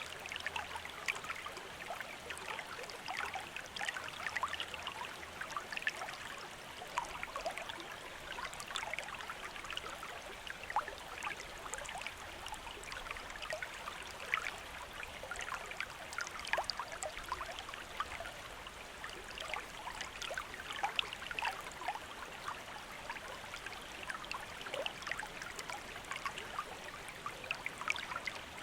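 A stream or small river running steadily, with many small splashes and trickles over the constant rush of water.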